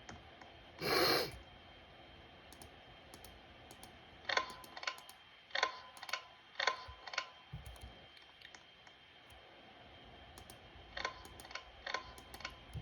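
A short rustling burst about a second in, then light sharp clicks, each with a brief ring, in two irregular clusters.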